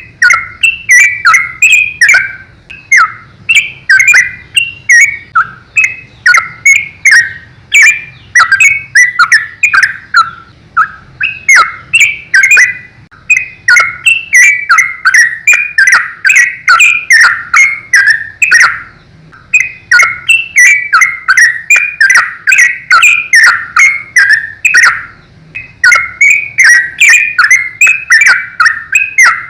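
Yellow-vented bulbul (trucukan) singing loudly in rapid, continuous runs of chattering, bubbling notes, broken by short pauses every few seconds.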